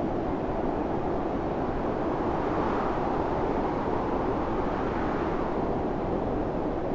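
Storm wind blowing steadily, a deep rushing noise that swells a little in the middle.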